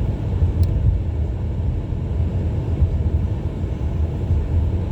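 Car driving slowly on a snowy road, heard from inside the cabin: a steady low rumble of tyres and engine.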